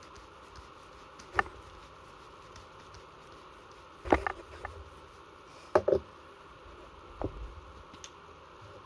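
Handling knocks and clicks from a Marushin SAA .45 gas revolver being worked on for a gas leak. There are several separate sharp strikes: one about a second and a half in, a quick cluster around four seconds, a double knock near six seconds, and a softer one past seven.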